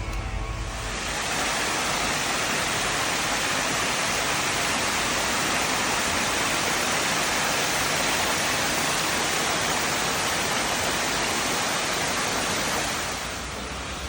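Steady rushing noise like falling water, fading in about a second in and fading out near the end.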